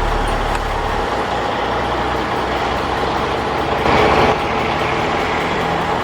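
Heavy logging truck's diesel engine running at low revs, with a brief louder rush of noise about four seconds in.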